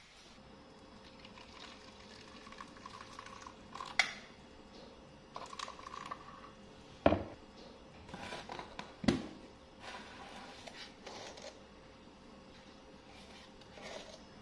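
A tin of powdered milk and a plastic measuring jug with a spoon being handled on a granite countertop: several sharp clicks and knocks, the loudest about 4, 7 and 9 seconds in, with smaller clatters as the tin is opened and powder scooped.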